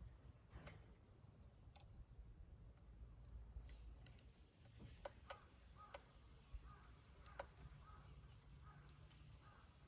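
Small fire burning in a rusty can, crackling faintly with scattered ticks and pops. Faint short bird chirps come in over the second half.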